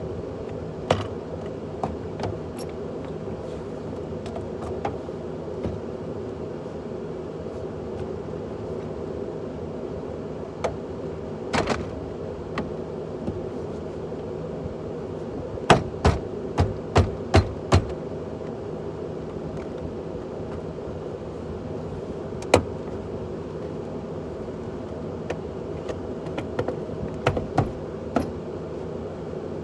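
Sharp metallic clicks and clinks over a steady hum. One quick run of about six clicks comes about halfway through, and the rest are scattered.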